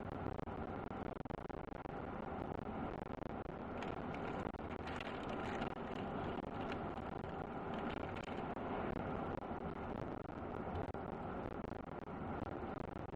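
Steady road and engine noise of a truck driving, with some stretches of louder hiss in the middle.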